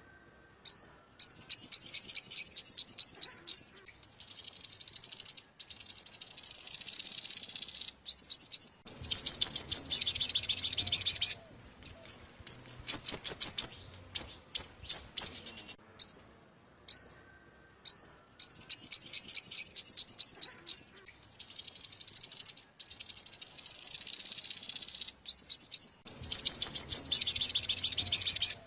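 Sunbird song: rapid, high-pitched trills of quickly repeated chirping notes, in bursts of a few seconds separated by short pauses.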